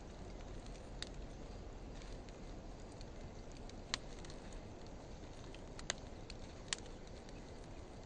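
Wood fire burning: a soft, steady hiss of flames with four sharp crackling pops, about one, four, six and nearly seven seconds in, from driftwood and dry hardwood logs.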